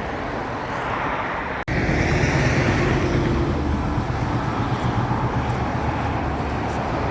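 Motorcycle riding at speed: the V-twin engine's rumble with wind and road noise. About a second and a half in there is an abrupt break, after which the engine rumble is louder.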